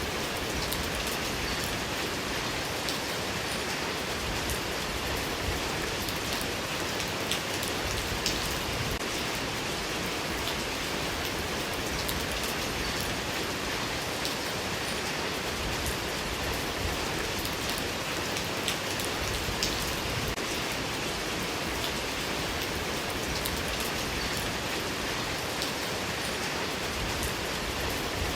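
Steady rain falling: an even, unbroken hiss with scattered sharper ticks of single drops.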